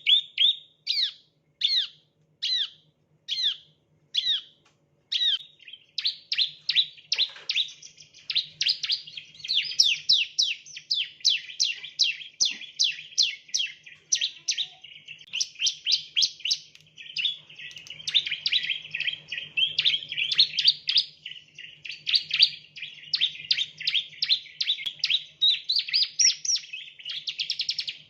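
Bar-winged prinia (ciblek, Prinia familiaris) singing: high, downward-sweeping chirps, at first spaced about half a second apart, then from about six seconds in run together into a fast, continuous chattering series.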